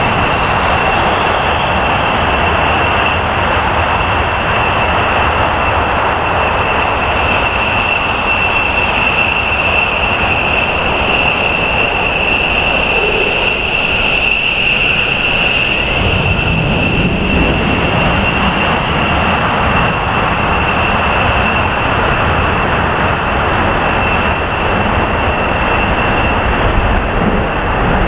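F-15 jet engines running loud and steady: a broad roar with a high whine held over it throughout.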